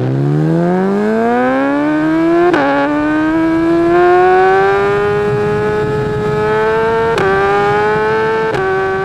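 Motorcycle engine accelerating hard, its pitch climbing steadily, with three quick upshifts that each drop the pitch: one about two and a half seconds in and two near the end.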